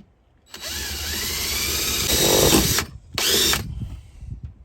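Power drill running under load for about two seconds, its pitch shifting as it bites, then stopping and giving one short second burst, as when a screw is driven home into the van's framing.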